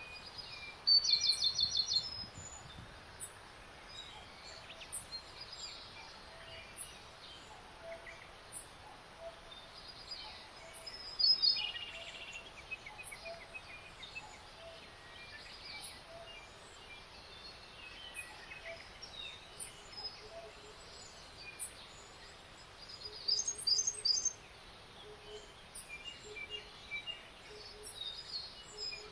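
Songbirds singing in a spring forest: short, high trilled phrases about a second in, around the middle and again near the end, with fainter calls between them over a quiet steady background.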